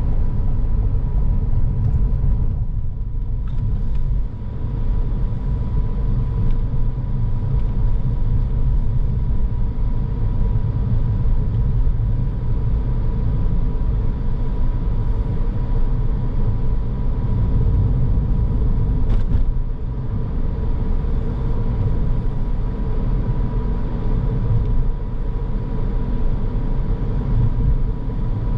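A car driving along at steady speed, its road and engine noise a constant low rumble, with a faint steady high whine running under it.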